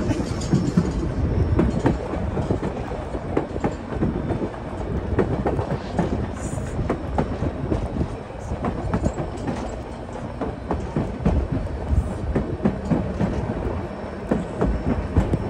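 Narrow-gauge White Pass & Yukon Route passenger train rolling along: a steady rumble of the cars with a continuous clatter of wheels over the rail joints.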